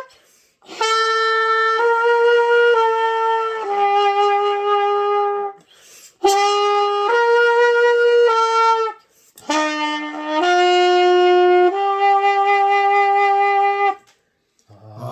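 Trumpet played by a beginner: three phrases of long held notes with short breaths between them, the last phrase stepping upward note by note.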